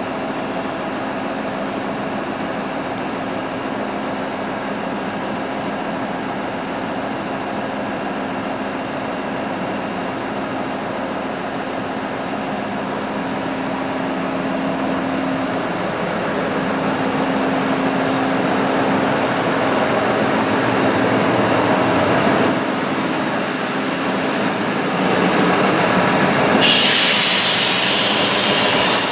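DB class 628 diesel multiple unit running under its underfloor diesel engine, with a steady engine drone that grows louder from about halfway. A sudden loud hiss joins in near the end.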